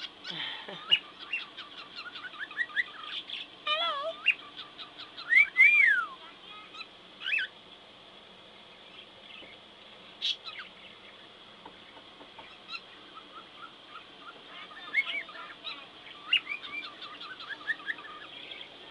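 Male cockatiel chirping and whistling in short calls that sweep up and down in pitch. The calls are busiest in the first several seconds, thin out for a stretch midway, and pick up again near the end.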